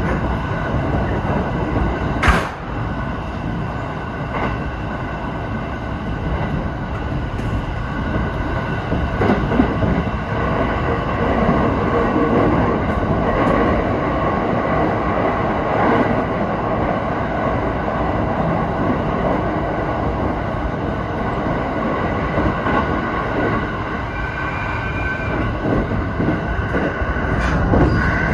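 Electric train running along the line, heard from inside: a steady rumble of wheels on rail, with one sharp click a couple of seconds in and a few fainter clicks later.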